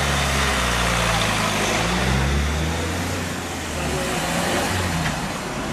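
Toyota Corolla car engine running close by as it pulls away, its pitch rising about two seconds in and then easing off as it moves off.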